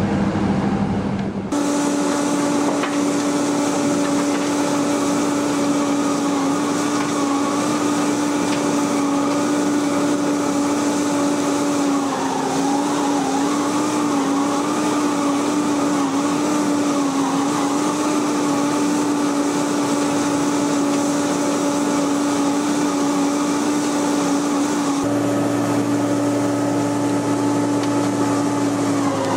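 A wood chipper's engine running at a steady high speed with a constant hum. Its pitch dips and wavers for a few seconds about halfway through.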